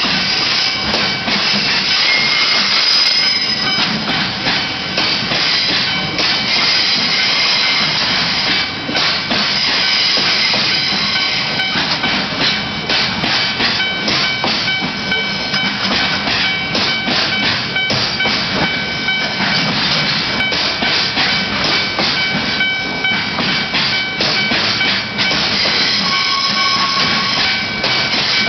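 Level crossing warning bell ringing steadily while a train passes over the crossing. Through the middle, the wheels clatter over the rail joints in a quick run of clicks.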